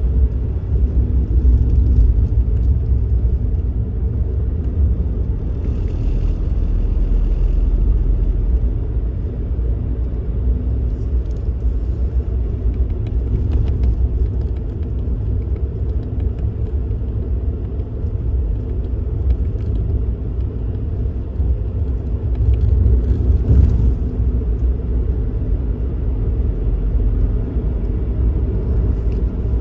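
Suzuki Kei Works kei car driving, a steady low rumble of engine and road noise, with a brief swell about two-thirds of the way through.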